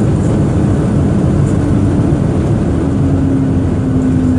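Steady loud rumble of engine and airflow noise inside the cabin of a Boeing 737-800 during landing, with a humming tone coming in about three seconds in and slowly falling in pitch.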